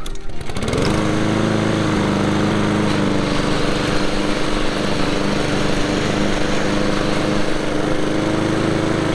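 Husqvarna HU800AWD walk-behind lawn mower engine running at mowing speed. It comes up to speed in the first second, then holds a steady, loud note.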